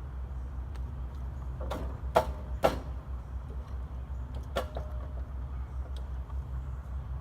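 A few sharp metallic clinks with a brief ring, as of hand tools knocking against metal parts, the loudest two close together about two seconds in, over a steady low rumble.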